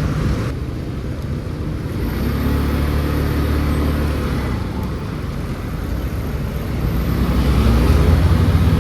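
Motor scooter engine running while riding, its low hum rising in pitch as it speeds up about two seconds in and again near the end, where it grows louder.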